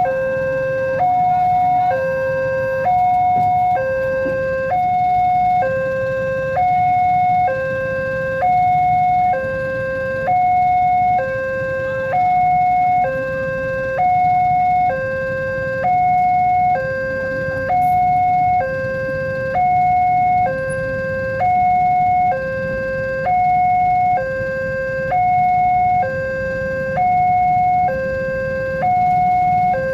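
Railway level-crossing warning alarm sounding a steady two-tone electronic hi-lo signal, switching pitch about once a second, the signal that a train is approaching and the gates are closing. A low rumble runs beneath it.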